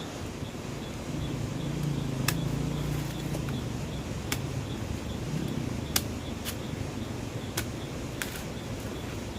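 Several sharp clicks or knocks, irregularly spaced a second or more apart, over a low rumble that swells about a second in and fades after a few seconds.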